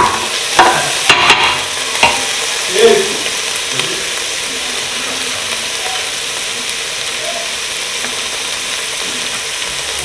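Chopped vegetables frying in a large stainless steel pot, a steady sizzle. In the first few seconds a wooden spoon stirs them, knocking against the pot a few times.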